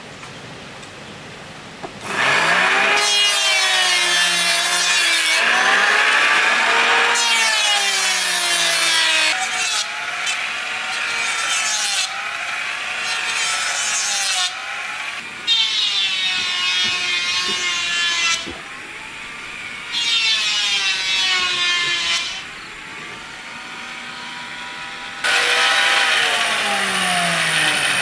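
A power tool cutting wood in five passes. The motor's pitch dips under load during each cut and climbs back, and the tool runs lighter between cuts.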